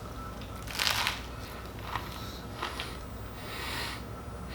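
Biting into a buttered potato chip sandwich: a crisp crunch about a second in, then a few quieter crunches of chewing.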